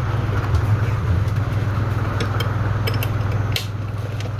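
Steady low hum of a running engine, with a few light clicks in the middle and a sharper knock about three and a half seconds in.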